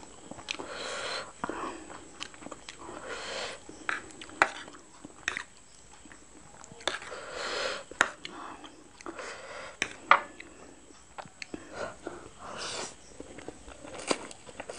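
Close-miked chewing and wet mouth sounds of a person eating Maggi masala noodles, in irregular short bursts with sharp clicks of a metal fork against the plate in between.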